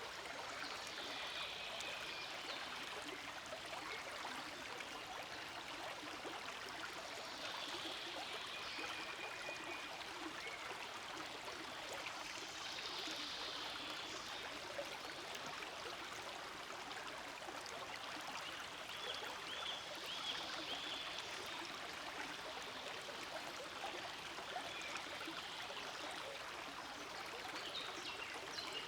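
Forest stream flowing and gurgling steadily over rocks, with brief high notes now and then above the water.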